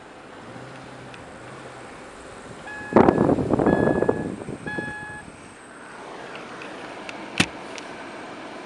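A car's warning chime beeps three times, about a second apart, over a loud rustling and bumping of someone settling into the car. A single sharp click comes later.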